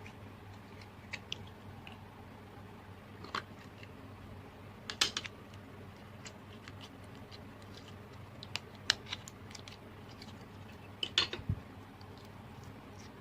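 Slime with mixed-in add-ins being squeezed and worked by hand, giving scattered sharp clicks and pops, some in quick little clusters, over a steady low hum.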